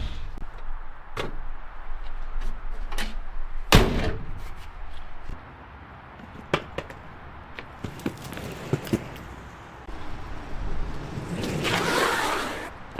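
The 1962 Ford Galaxie's V8 stops running abruptly, followed by scattered clicks and knocks, one loud slam about four seconds in, and a rush of noise near the end.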